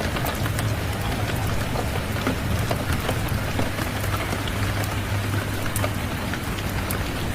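Steady rainfall, with scattered sharp crackles of a wood fire and a low rumble underneath.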